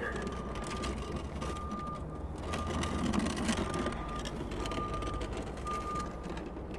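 A warning beeper sounding a short high beep about once a second, over a low mechanical rumble and the rough scrape of a heavy wooden chest being dragged along asphalt.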